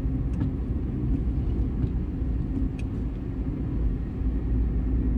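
A car on the move: steady low rumble of engine and road noise.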